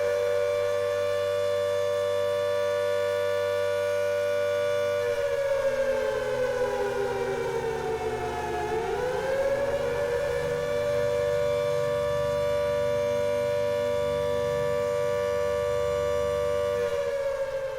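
Civil-defence air-raid siren wailing on a steady high note. About five seconds in it slides down to a low point, rises back up and holds, then begins to fall again near the end. A low rumble runs underneath from about five seconds on. The siren sounds the start of the announced attacks.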